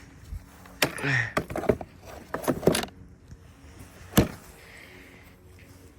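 Clicks, rattles and knocks of lawnmower parts being handled, plastic and metal striking as an accessory such as the grass catcher bag is fitted. There is a cluster of rattling strikes in the first half and one sharp knock about four seconds in.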